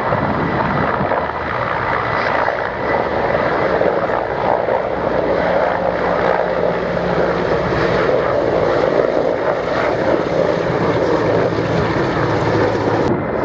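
Czech Air Force Mil helicopters (Mi-171 Hip and Mi-35 Hind) running at a steady loud level: turbine and rotor noise with no clear break or change.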